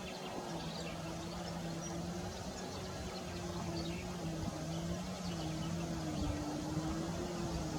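A motor droning steadily with a slightly wavering pitch, with faint short bird chirps scattered over it.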